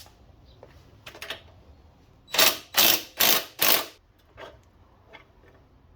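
Hand-tool and metal-part workshop noise from work on a minibike's suspension: a few light clicks, then four quick rasping bursts about half a second apart, and a couple of faint clicks near the end.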